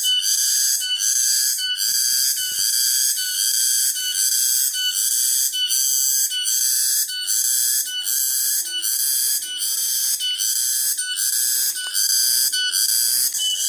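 Cicadas calling: a loud, high-pitched buzz that pulses in a steady rhythm, a little more than once a second.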